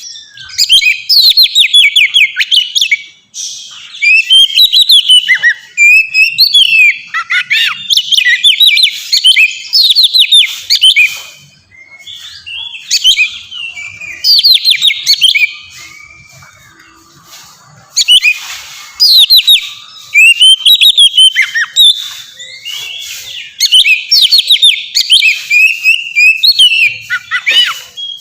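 Oriental magpie-robin (kacer) singing a loud, varied song of rapid whistled and chattering phrases, with a quieter, sparser stretch in the middle.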